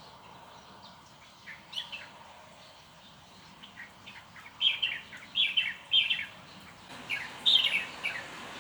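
A bird singing in short phrases of quick, falling chirps: a brief phrase a couple of seconds in, then a busier run of phrases through the second half.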